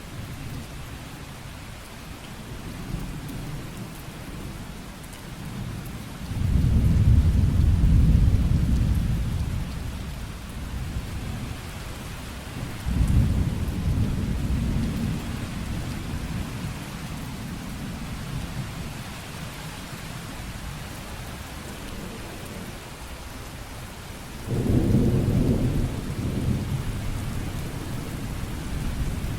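Steady heavy rain with three low rolls of thunder: the loudest about six seconds in, another about halfway, and a shorter one near the end.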